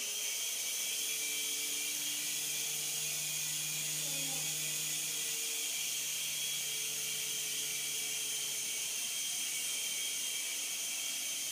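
Small electric motor of a toy remote-control helicopter running with a steady, even whir and whine, with no change in speed.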